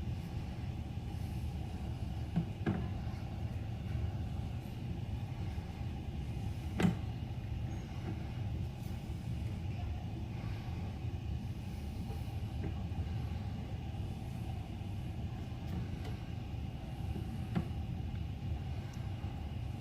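Steady low rumble with a sharp knock about seven seconds in and a few fainter knocks, as a sewer inspection camera is pushed along a cast iron and PVC drain line.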